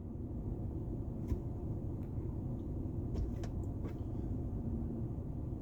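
Car engine idling, heard as a steady low rumble inside the cabin while stopped in traffic, with a few faint clicks.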